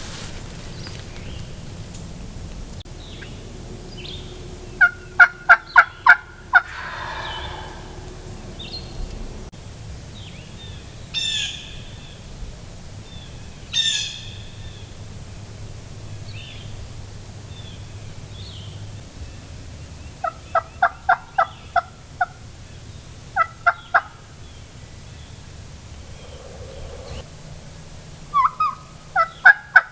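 Wild turkey yelps in runs of short, evenly spaced notes: five about five seconds in, a longer run around twenty seconds, two more just after, and another run near the end. Fainter bird calls come in between the runs.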